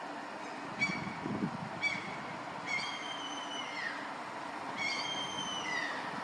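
Gull calling repeatedly over a steady background hiss: two short calls, then two longer drawn-out calls that drop in pitch at the end. A brief low rumble comes about a second in.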